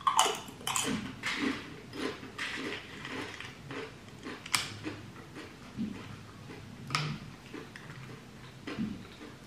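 Close-miked eating sounds: biting and chewing food, with a few sharp clicks.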